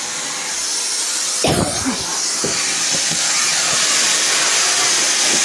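A loud, steady hiss of rushing air, slowly growing louder, with a short thump about a second and a half in.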